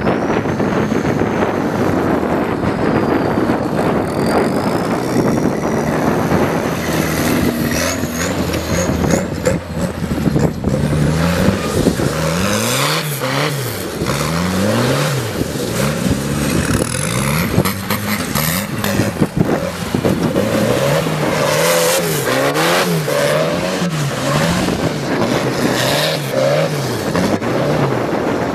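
Tractor's turbocharged Volvo engine running, then revved up and down over and over, its pitch rising and falling every second or so through the second half.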